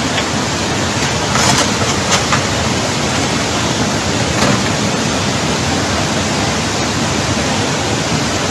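Loud, steady rush of storm water, with a few brief sharper hits about one and a half and two seconds in.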